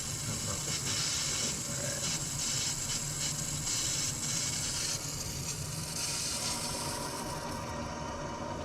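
Household water pipes refilling after new shut-off valves were fitted: a steady, uneven hiss of water and air rushing through the lines. The air is being purged out through an open faucet.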